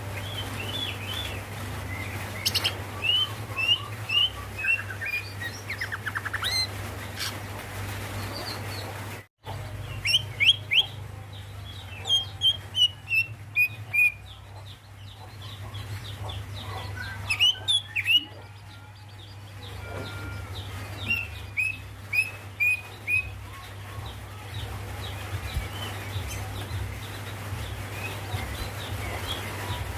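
Female greater green leafbird (cucak ijo) calling in runs of quick, short chirps and falling whistled notes, with pauses between runs; the uploader calls this the female's call to a male. A steady low hum runs underneath, and the sound cuts out for an instant about nine seconds in.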